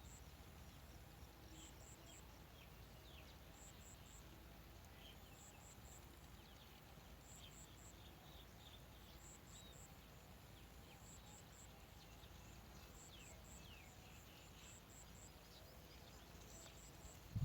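Faint outdoor ambience: a very high, thin chirp in quick groups of three, repeating every second or two, over scattered faint short chirps and a low steady rumble.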